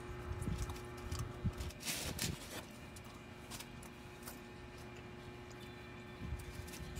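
Chewing of a bite of baked bread roll, soft irregular mouth sounds for the first couple of seconds, with a brief rustle about two seconds in. A steady low hum runs underneath.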